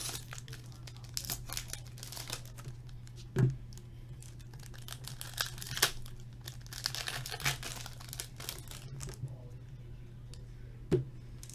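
Hockey card pack wrappers crinkling and tearing open, with scattered crackles of cards being handled. There are two louder knocks, one about three and a half seconds in and one near the end.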